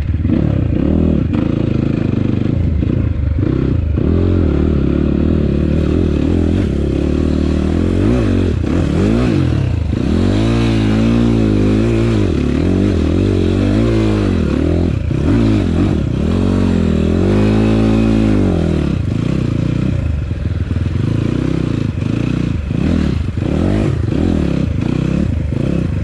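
Enduro dirt bike engine revving up and down over and over as it is ridden, its pitch rising and falling with each throttle opening, with clattering and scraping noise under it.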